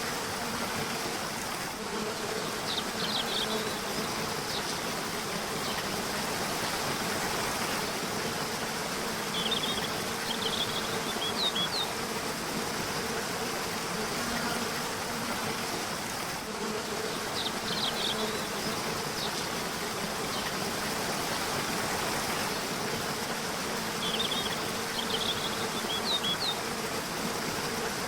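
Steady rush of flowing river water, with a low buzz that swells and fades. Small groups of short, high bird chirps come four times.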